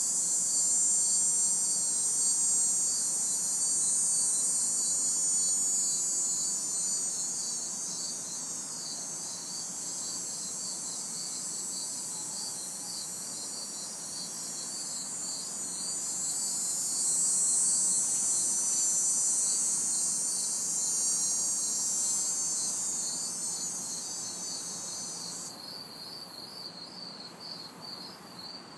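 Night insect chorus: crickets chirping in a steady, evenly pulsed rhythm, with a louder, higher cicada buzz that swells and fades twice and drops away sharply near the end. A faint hum of distant traffic lies underneath.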